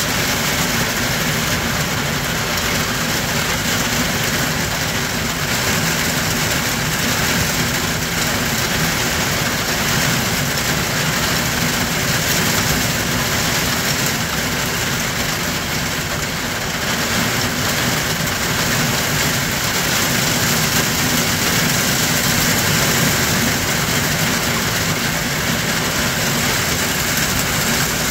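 Heavy rain falling in a steady downpour, a dense, even hiss that swells and eases slightly.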